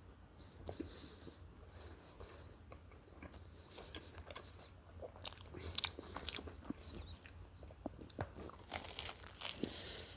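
A person chewing and biting into a pepperoni sandwich close to the microphone: faint, irregular wet clicks and soft crunches, coming more thickly about six and nine seconds in.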